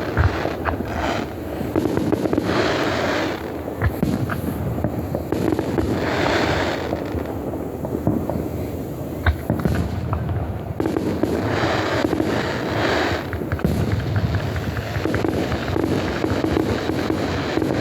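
Aerial fireworks going off in quick succession: a continuous rumble of overlapping booms, with several sharp bangs standing out and longer rushes of noise every few seconds.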